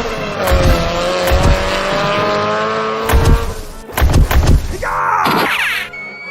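Racing-car sound effects over background music with a steady beat: an engine whine holds for about three and a half seconds, then a sweeping whoosh comes about five seconds in.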